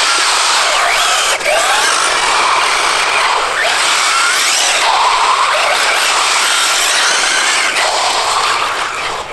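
Brushless motor of an electric 1/8 RC buggy (Hobbywing EZRun 1650kV on a Max6 ESC, 6S) whining up and down in pitch as the car accelerates and slows several times, over a steady noisy rush from the tyres and drivetrain.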